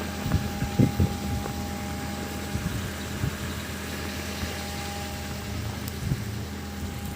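Car engine idling with a steady low hum, and a few soft knocks about a second in.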